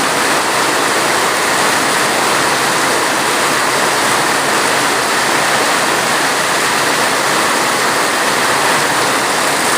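Steady heavy rain, an even hiss with no single drops or other sounds standing out.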